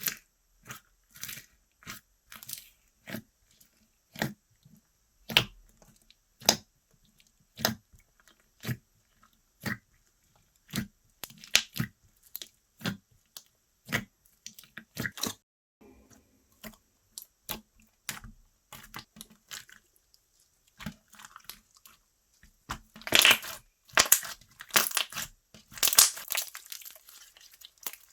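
Slime being pressed and poked by hand, giving a series of separate crisp pops and clicks about one or two a second, with a denser run of crackling near the end.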